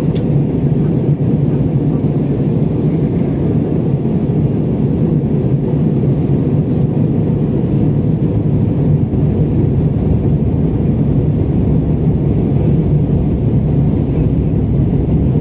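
Steady cabin noise of an Airbus A320 airliner: engine and airflow roar, even and unchanging, heaviest in the low range.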